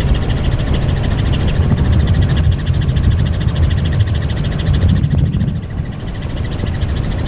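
Tour helicopter in flight: steady rotor and engine noise with a thin high whine over it. The noise eases slightly for about a second in the second half.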